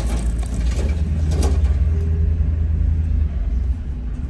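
Car driving at low speed, with a steady low engine and road rumble heard from inside the cabin and a brief click about a second and a half in.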